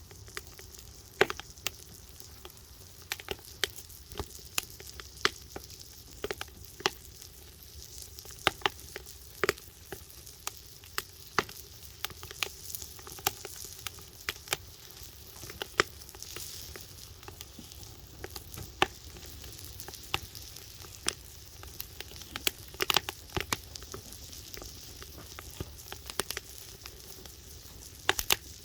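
Log firewood fire crackling, with irregular sharp pops over a steady sizzling hiss.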